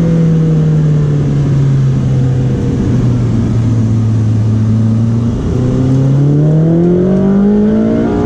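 Ferrari 458 Speciale's naturally aspirated 4.5-litre V8 heard from inside the cabin, its revs sinking slowly for about the first five seconds while the car is steered through a corner, then climbing steadily as it accelerates out.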